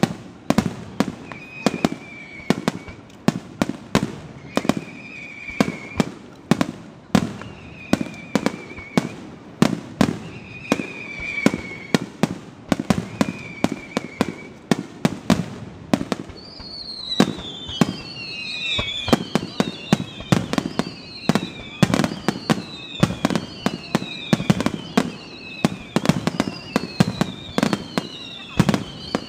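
Aerial fireworks shells bursting at close range: a rapid, irregular string of sharp booms and cracks, at times several a second. High whistles falling in pitch recur every second or two, several overlapping from about halfway through.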